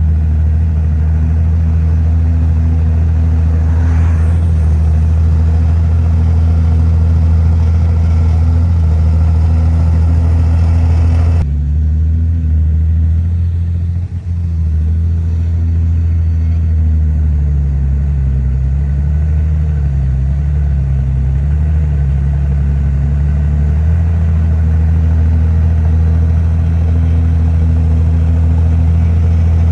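Heavy diesel earthmoving machinery running with a steady low engine drone. About eleven seconds in, the higher noise drops away abruptly, and the engine speed dips and rises a few times before settling steady again.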